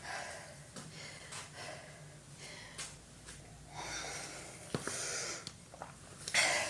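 A woman's heavy breathing, several deep breaths about a second apart, as she recovers after a round of burpees. There is a single short knock a little before the fifth second.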